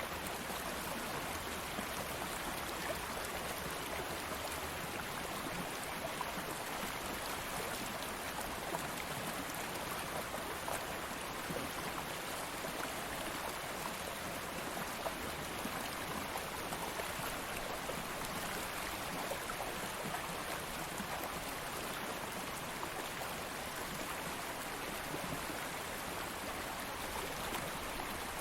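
Stream of flowing water running steadily, an even rushing hiss with small splashes and trickles through it.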